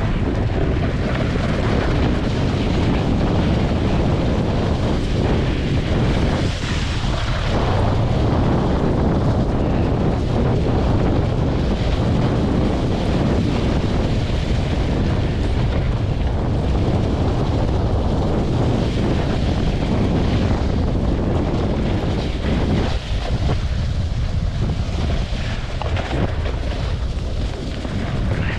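Steady, loud wind noise rushing over the microphone as the snowboarder is towed along, with the board sliding over snow beneath it.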